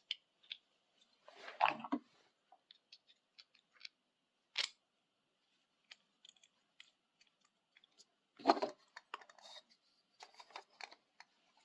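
Small clicks and taps of a nut being worked into a hole in a camera tripod's frame, with a sharp click about four and a half seconds in and two louder spells of handling noise, around two seconds in and again near eight and a half seconds.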